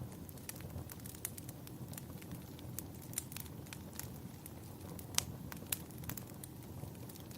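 Wood fire burning in a fireplace, crackling with frequent sharp pops of varying strength over a steady low rumble; one louder pop comes about five seconds in.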